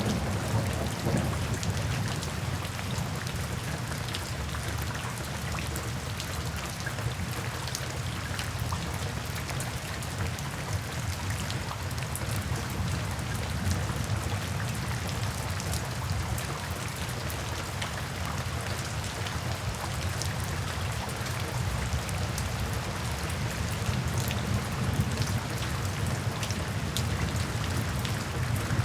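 Steady rain falling, with scattered sharp drop hits over an even hiss and a low rumble underneath.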